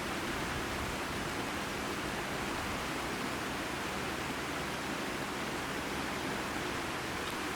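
Tama River water rushing steadily over its rocky bed.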